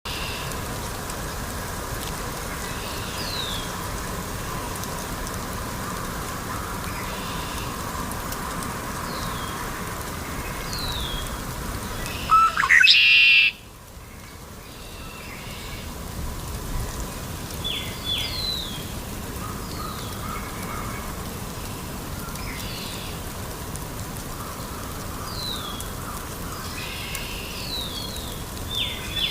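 Red-winged blackbirds calling: short, high, falling chirps every second or two over a steady background hiss. About halfway through, one much louder rising sound lasts about a second.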